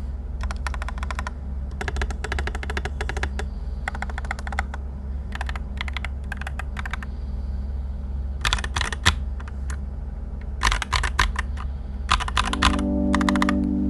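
Typing on a TM680 mechanical keyboard with Akko Cream Yellow Pro V3 linear switches and Coral Sea keycaps: quick bursts of keystrokes with short pauses between them. A steady low hum runs underneath, and a mallet-like melody comes in near the end.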